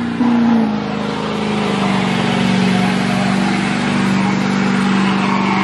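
GMC Sierra Denali HD pickup doing a burnout: its engine is held at high revs at a nearly steady pitch that dips slightly about two seconds in, over the hiss of the rear tyres spinning on the pavement.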